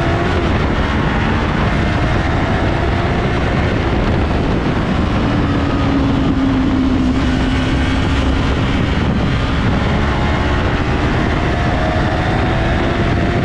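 Yamaha R3's 321 cc parallel-twin engine running hard at speed, heard through heavy wind rush on an onboard microphone. The engine pitch climbs at the start and again near the end, and holds steadier in the middle.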